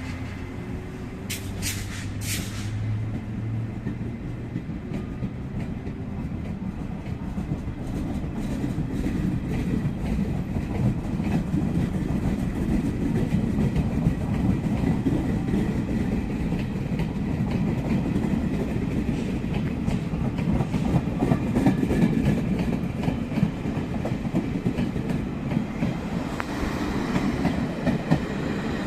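Train running on the rails, wheels clicking rhythmically over rail joints, growing louder from about eight seconds in. A few short, sharp high sounds come about two seconds in.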